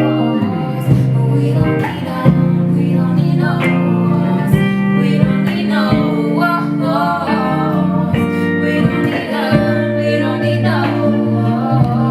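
Live indie soul song: singing over guitar and band accompaniment.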